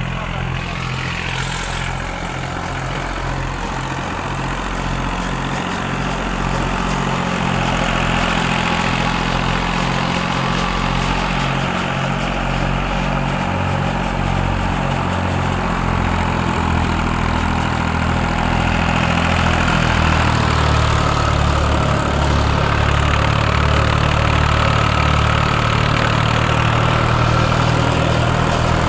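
Fiat farm tractor's diesel engine running steadily, getting a little louder about a third of the way in and again about two-thirds of the way through.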